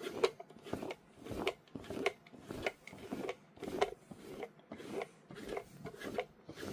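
Faint, rhythmic rubbing strokes of a hand cleaning tool over a fabric blanket, about one every half second or so, working shed dog hair off the cloth.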